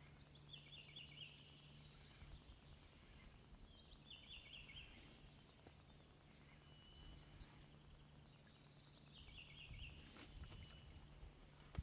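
A songbird singing the same short, quick phrase three times, about four seconds apart, with a thin held note between, over a faint steady hum.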